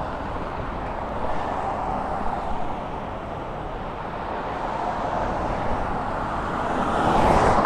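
Steady traffic on a busy road, with a car passing close and loudest near the end.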